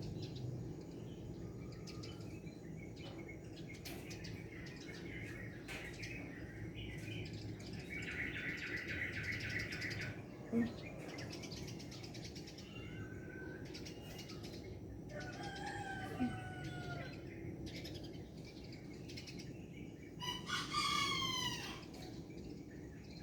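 Outdoor rural ambience of small birds chirping, with a steady trilling chirp for a couple of seconds partway through. Near the end comes one louder call that falls in pitch.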